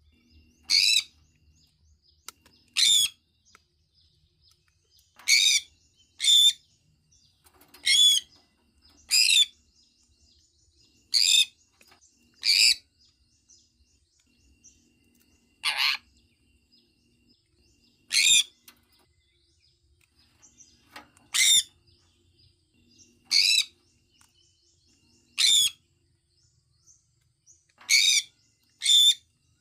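Sun conure giving short, shrill contact calls, about fifteen in all, one every one to three seconds, with quiet gaps between them.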